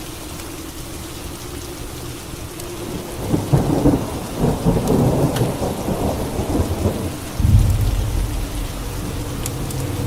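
Steady rain with thunder: a crackling roll of thunder breaks in about three seconds in, followed by a deeper low rumble near the end.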